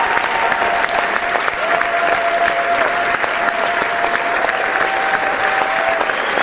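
A crowd applauding: many hands clapping in a dense, continuous patter that holds steady throughout.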